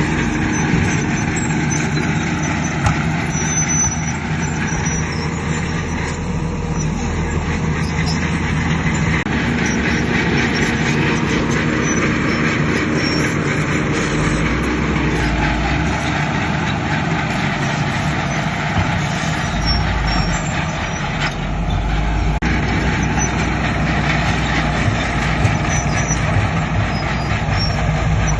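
Heavy diesel earthmoving machinery running steadily, with the engine note and load shifting a little at times.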